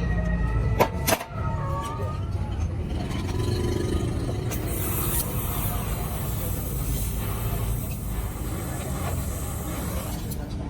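Steady low rumble of a running vehicle engine, with two sharp knocks about a second in.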